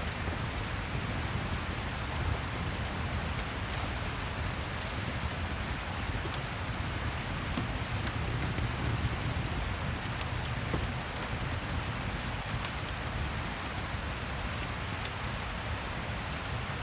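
Steady rain ambience with a fireplace, scattered small crackles over the even hiss and low rumble of the rain.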